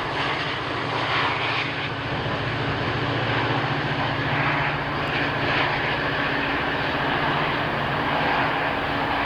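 Quadcopter drone's motors and propellers whirring steadily, a constant hum with a hiss over it.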